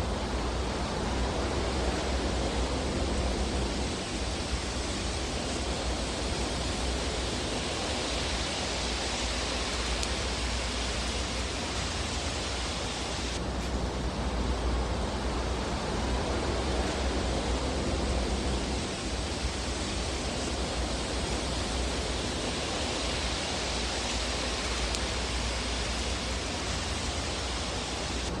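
Fireplace ambience: a steady rushing hiss over a low rumble, with no distinct crackles standing out. It swells and eases slowly, with an abrupt change in the hiss about thirteen seconds in.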